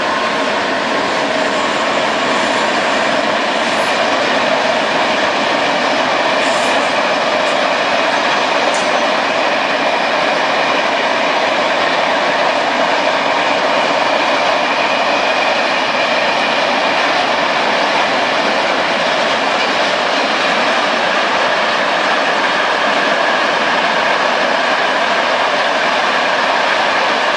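A train passing close by: a loud, steady rush of wheels on rail with faint whining tones, building slightly over the first couple of seconds and then holding.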